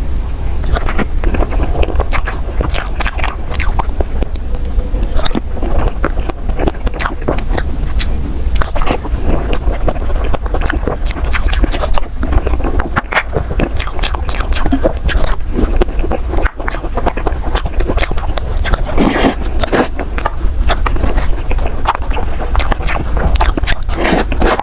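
Close-miked ASMR eating of soft desserts: repeated bites and chewing with many quick sharp clicks, over a steady low hum.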